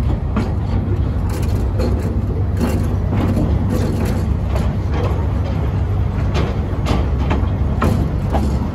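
A narrow-gauge train carriage running along the track, heard on board: a steady low rumble with frequent, irregular knocks and rattles from the wheels and the car body.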